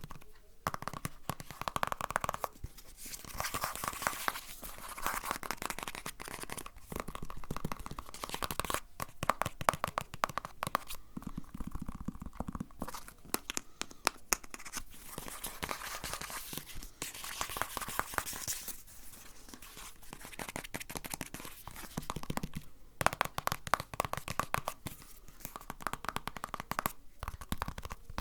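Close-miked crinkling and crackling of material being scrunched and handled, in uneven stretches with brief pauses between them.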